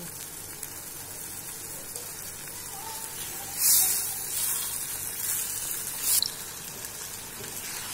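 Chicken in a thick masala sizzling steadily in a clay pot while a wooden spatula stirs it, with two louder swishes of sizzle and scraping, one near the middle and one about six seconds in.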